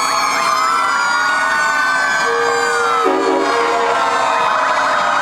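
Several fire truck sirens sounding at once, their wails rising and falling over one another and turning to a fast yelp near the end. A steady horn tone sounds through the middle.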